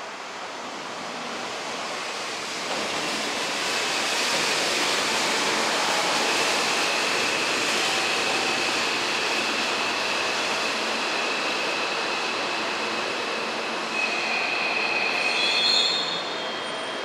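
Hanshin electric train running along the station platform: a steady rush of wheels on rail with a thin, high, steady wheel squeal. The sound builds a few seconds in, is loudest just before the end, then drops away.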